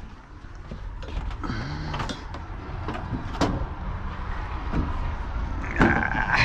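Double-door refrigerator being handled for removal: scattered knocks and clicks over a low rumble, with a short squeak about six seconds in.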